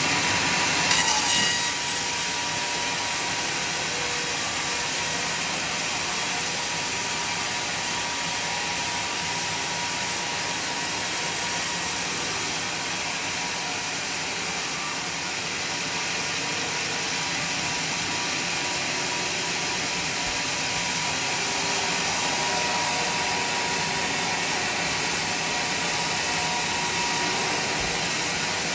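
Homemade sawmill running steadily as it saws through a log, a dense even noise with a thin steady whine, and a brief louder burst about a second in.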